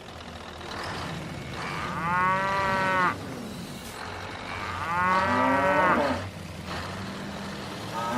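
Cow mooing: two long calls, each about a second, with a third starting near the end.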